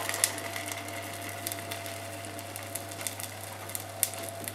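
Parmesan-and-egg-coated pork schnitzel frying in a pan: a steady sizzle with scattered sharp crackles, over a faint steady hum.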